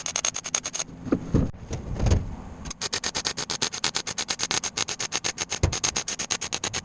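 A power tool chattering in fast, even strokes, about ten a second, with a brief break early on marked by a few low thumps.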